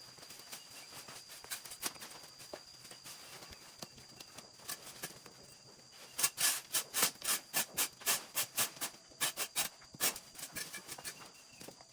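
A steady high insect trill, joined about halfway through by a quick run of sharp rubbing or scraping strokes, about four or five a second, that stops after about four seconds.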